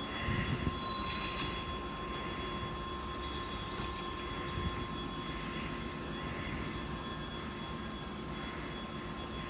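Diesel locomotive running steadily as it hauls a string of electric-train cars, with a brief louder rumble and a short high ring about a second in.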